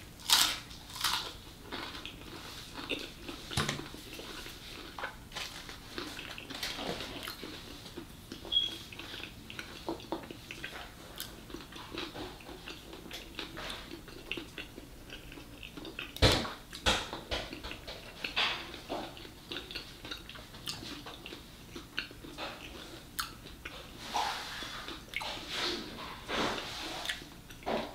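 Close-miked chewing and mouth sounds of a person eating the cream cheese filling of a fried wonton: soft, irregular wet smacks and clicks, one louder about halfway through.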